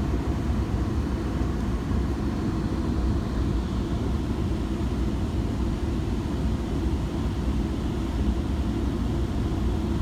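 Steady low rumble inside a Metrolink commuter train passenger car under way, the wheels running on the rails.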